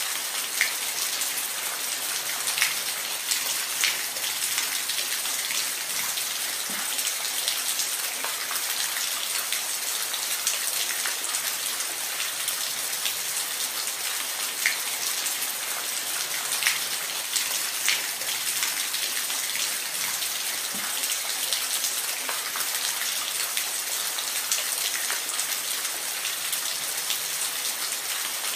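Steady rain falling, a dense even patter with occasional louder individual drops hitting a surface.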